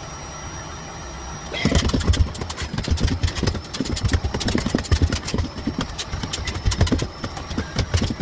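Miele Blizzard CX1 bagless cylinder vacuum cleaner running with a steady high whine. About a second and a half in it gets louder, with rapid knocks and clatter as the floorhead is worked over the floor.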